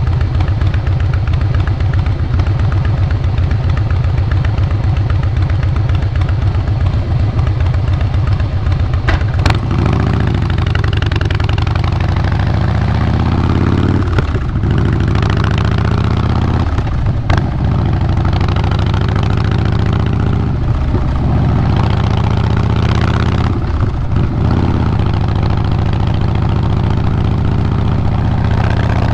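2012 Harley-Davidson Fat Boy Lo's air-cooled Twin Cam 96B V-twin running through Vance & Hines Big Radius 2-into-2 pipes. It holds a steady note for about nine seconds, then climbs in pitch again and again, with a short dip every three seconds or so, as if shifting up through the gears.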